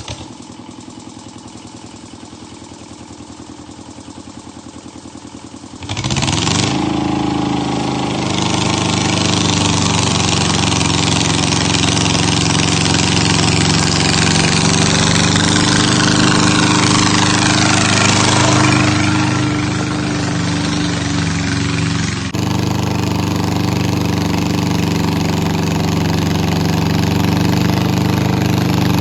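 Engine of a home-built garden pulling tractor idling, then revved up suddenly about six seconds in, its pitch rising and then held at a steady high speed with shifting whine over it.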